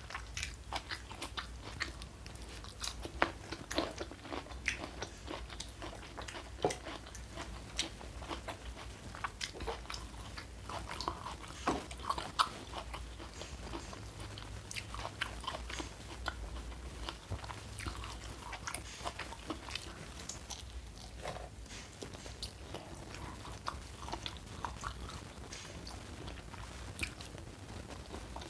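Close-miked eating: irregular bites and chewing with crisp crunches, dozens of small clicks throughout, over a low steady hum.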